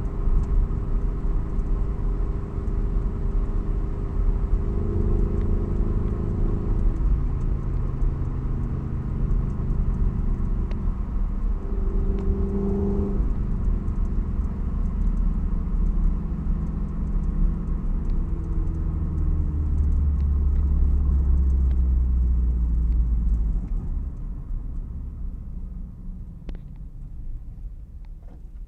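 Toyota 86's FA20 flat-four boxer engine with unequal-length headers and an aftermarket exhaust, driving with a steady exhaust rumble whose note shifts up and down with engine speed. It eases off and gets quieter over the last few seconds.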